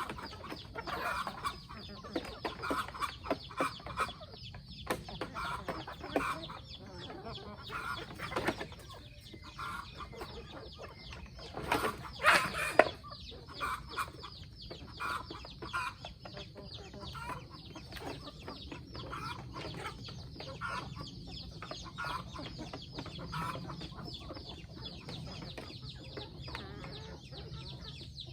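Chickens clucking over and over, with a brief louder clattering noise about twelve seconds in.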